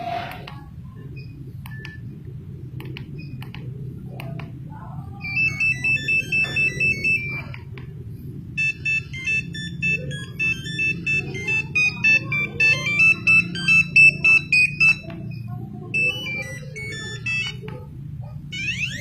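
Monophonic mobile-phone ringtone from a Nokia 1100 board, a quick melody of high, pulsing beeps played through the phone's small speaker. It starts about five seconds in, breaks off briefly, then resumes and plays until about fifteen seconds in. A few faint clicks come before it, over a steady low hum.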